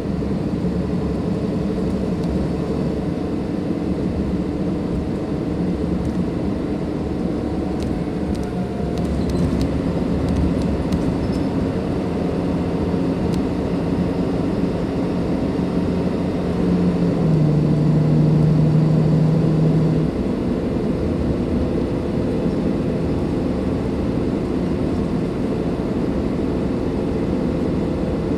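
Cummins ISLe inline-six diesel engine of a Dennis Enviro 500 double-decker bus running under way. A louder, steadier engine note swells about two-thirds of the way through and cuts off suddenly after about three seconds.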